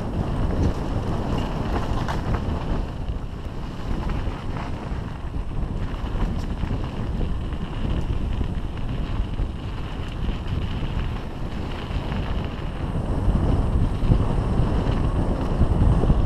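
Heavy wind buffeting the microphone of a camera on a mountain bike riding downhill, a steady low rumble that grows louder near the end, with a few faint knocks from the bike.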